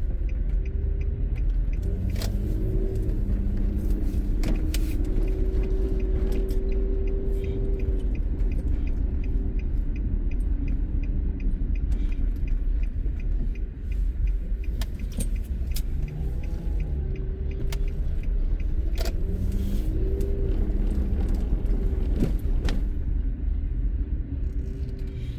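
Car driving, heard from inside: a steady low road rumble with an engine hum, and a few sharp rattles or clicks.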